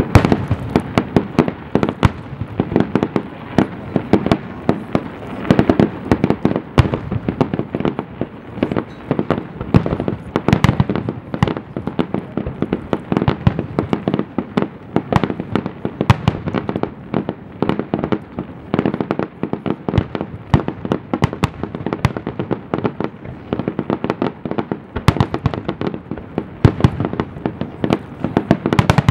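Aerial fireworks display: a dense, continuous barrage of shell bursts, many bangs a second with no let-up.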